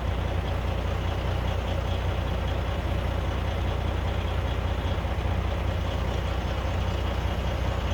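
Heavy diesel earth-moving equipment running steadily at a constant speed: a deep, even rumble with a faint steady tone above it.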